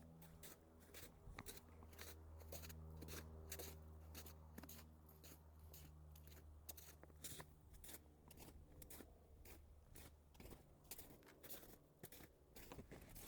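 Faint crunching footsteps in snow, a step or two a second with uneven spacing, over a steady low hum that fades out about ten seconds in.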